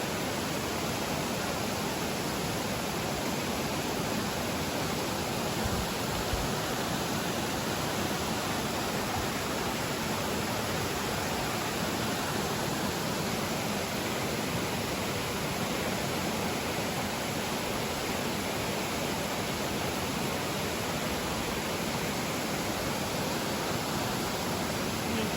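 Steady rushing water, an even unbroken noise with no distinct events.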